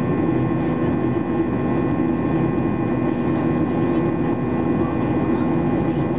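Steady in-flight cabin noise inside a Boeing 737-800: the CFM56-7B engines drone and the airflow rushes past the fuselage, with a few steady whining tones on top.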